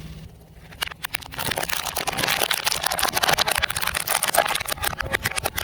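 Car tyre rolling over and crushing brittle objects. Quiet at first, then from about a second in a dense, continuous crackling and crunching of many small snaps.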